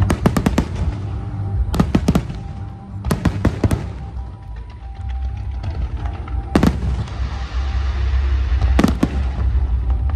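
Aerial fireworks shells bursting: quick runs of sharp bangs at the start, at about two seconds and about three seconds in, then single reports at about six and a half and nine seconds.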